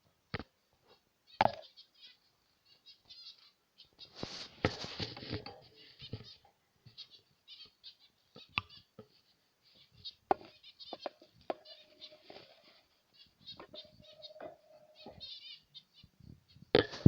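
A cage of zebra finches: short, nasal beeping calls and chattering song overlap, with wings flapping and sharp clicks at intervals. The loudest flurry of wingbeats comes about four seconds in.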